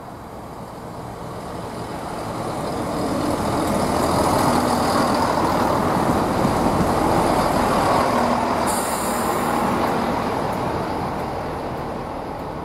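Class 165 diesel multiple unit passing through a station. Its diesel engines and the rumble of wheels on rail build up over a few seconds, peak as it goes by, then fade as it moves away.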